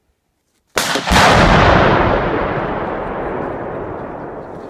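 About 20 lb of Tannerite binary explosive detonating: two sharp reports less than half a second apart, then a long rolling rumble that slowly fades.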